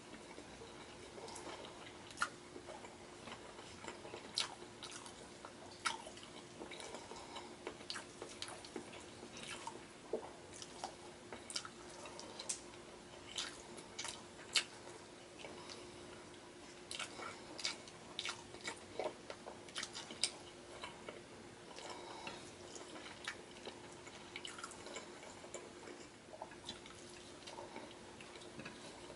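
Close-up wet chewing and lip-smacking of a person eating beef ribs and rice by hand, with irregular sharp mouth clicks and smacks.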